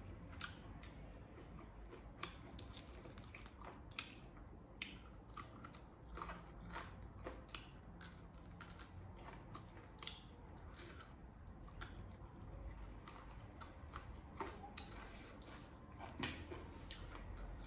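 Close-up chewing and crunching of crispy deep-fried chicken frame eaten with the fingers, with many irregular sharp crunches.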